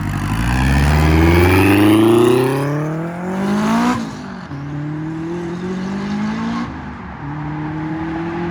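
Dodge Hellcat Redeye's supercharged V8 at full throttle, pulling away. The revs climb for about four seconds with a rising supercharger whine, drop sharply at an upshift, then rise again through two more gears as the car fades off.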